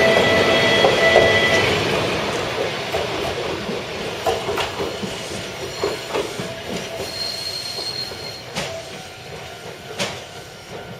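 Fukui Railway 770 series railcar's wheels squealing on the rails for the first two seconds or so. The sound then fades through quieter rolling with scattered clanks and another brief squeal about seven seconds in.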